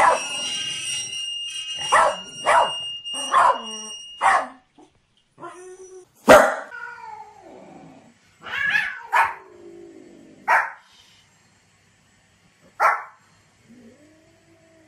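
Corgi barking in quick short barks, about half a dozen in the first four seconds. After a pause come scattered single barks and a few longer, wavering cries.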